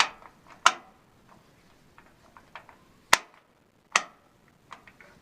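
Sharp clicks and knocks from hands handling parts or equipment: four loud ones, about a second in, near the start, past the middle and about four seconds in, with fainter ticks between.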